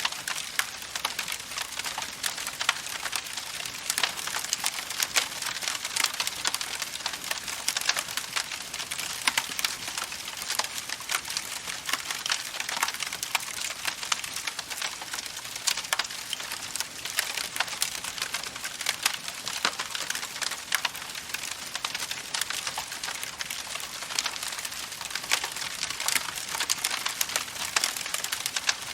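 Campfire crackling steadily, a dense stream of small pops and snaps.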